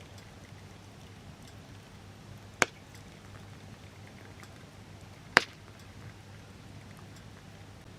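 Two sharp clicks about three seconds apart over a steady low hum.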